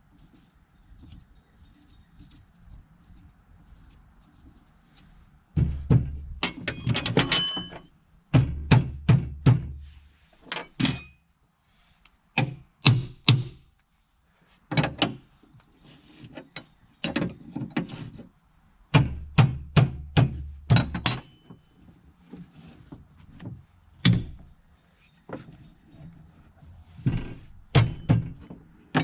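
Metal clicks and knocks from wrenches and hand tools working on a finish mower's deck pulley and belt. They come in clusters of rapid clicks with dull thuds, separated by short pauses, starting a few seconds in. A steady high chirring of crickets runs underneath.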